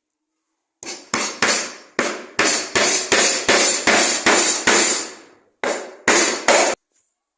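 Hammer blows, about fifteen in quick succession at roughly two a second, each a sharp hit that dies away quickly, with a short break near the end.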